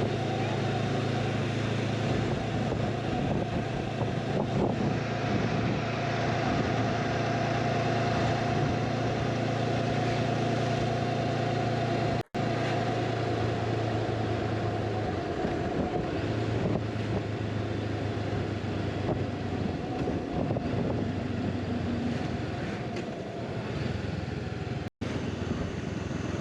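Motorcycle engine running at a steady cruising speed, with wind and road noise. The sound cuts out for an instant twice.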